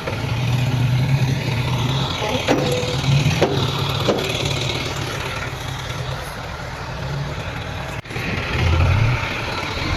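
Heavy diesel engine of earthmoving machinery running steadily with a low hum, with a few sharp clanks in the first half.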